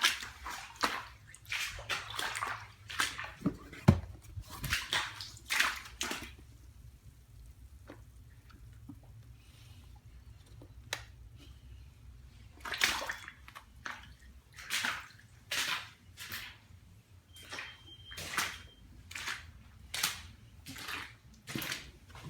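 Water sloshing and splashing in irregular bursts, quick runs of splashes with a quieter pause of several seconds between them.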